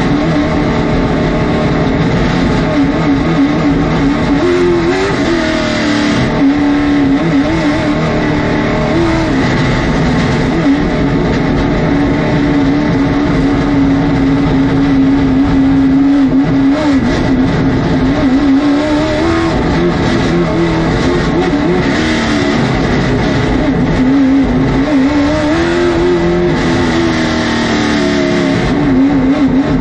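Late model stock car's V8 engine running at speed on track, heard from onboard. The engine note holds steady for long stretches, then dips and climbs again several times, as around 5, 19 and 26 seconds in.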